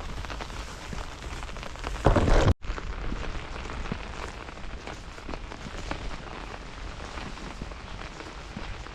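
Rain pattering steadily on a surface, with many small drop ticks. About two seconds in there is a brief loud rush, then the sound cuts out abruptly for a moment before the rain resumes.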